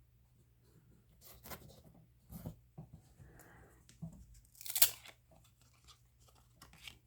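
Trading cards and their packaging being handled: scattered short rustles and clicks, with a sharper crinkling tear just before five seconds in.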